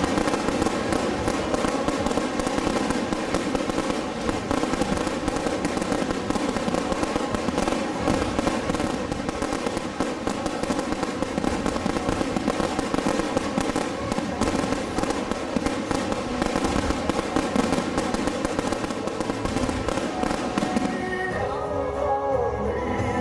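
Fireworks going off in a dense, continuous string of rapid crackling bangs over music. The crackling dies away about 21 seconds in, leaving the music.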